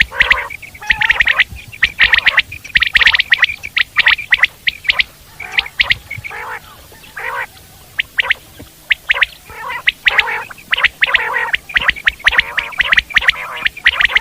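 Common quail calling over and over: quick groups of short, sharp notes, with lower, throatier notes mixed in between.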